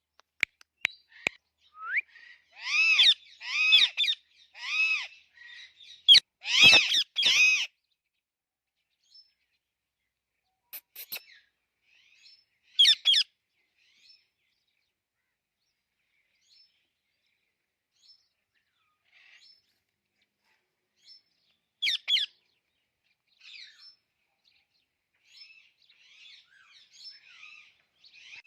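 Pet parrot calling: three loud arching calls in a row a few seconds in, then another loud run right after, followed by single calls spaced several seconds apart and soft chattering near the end.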